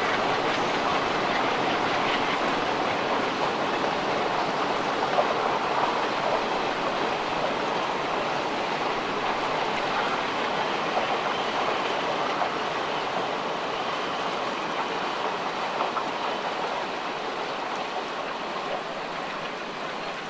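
Diesel-hauled passenger train of coaches rolling along the track: a steady noise of wheels on rail that slowly fades as the train draws away.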